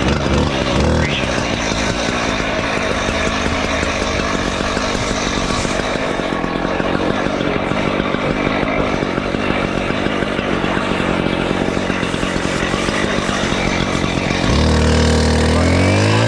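Fire engine's diesel engine running with a rough, rattling rumble. Near the end its pitch climbs steadily as the engine revs up.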